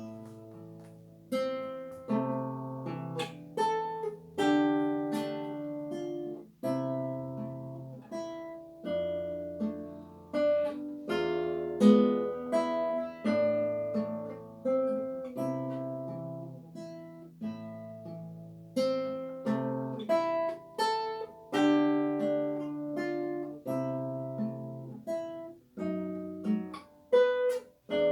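Solo classical guitar playing a slow, lyrical piece: a plucked melody over low bass notes, each note ringing and fading.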